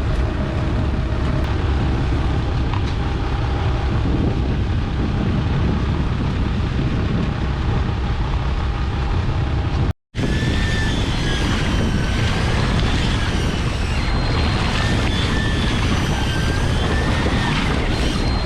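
Steady wind noise on the microphone over a low rumble from a boat at sea, cut off abruptly about ten seconds in by an edit. After the cut, a faint wavering high whine runs over the same wind and rumble.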